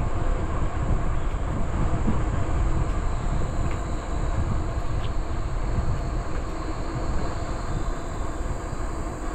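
Steady rush of wind on the microphone and bicycle tyre noise while riding along a trail, with a constant high insect drone behind it.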